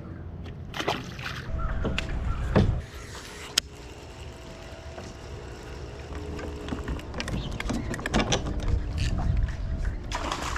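Wind buffeting the microphone on a small fishing boat as a shifting low rumble, with a few sharp clicks and knocks, the sharpest about three and a half seconds in.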